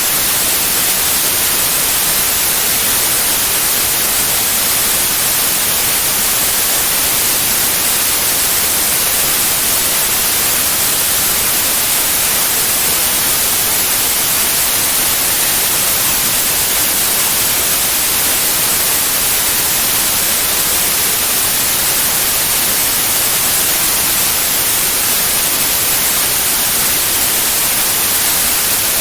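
Steady white noise: a loud, even hiss, bright and trebly, that does not change.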